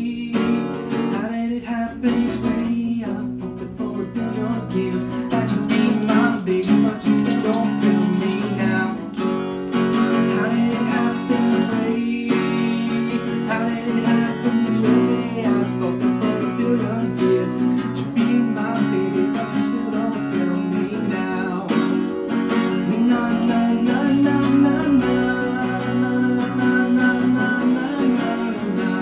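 Acoustic guitar strummed steadily, with a man singing over it: a solo singer-songwriter playing live.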